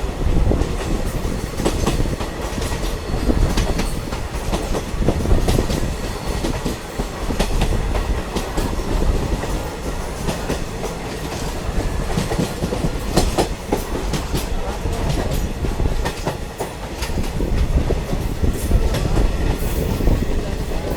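Ride noise of a moving diesel multiple unit train: a steady rumble of the carriage with frequent sharp clicks of the wheels over rail joints.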